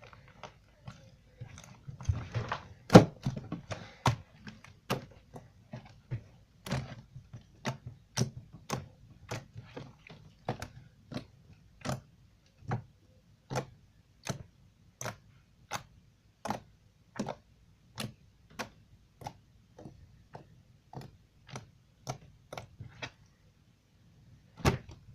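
Fingers poking and pressing a foam-bead slime, making a steady run of sharp pops and clicks, roughly one every 0.7 seconds. There is a denser stretch of squishing about two to four seconds in.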